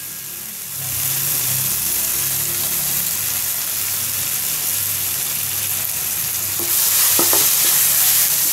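Onion and tomato masala sizzling in hot oil in a pan as it is stirred, the sizzle swelling about a second in and again near the end. A couple of light knocks sound near the end.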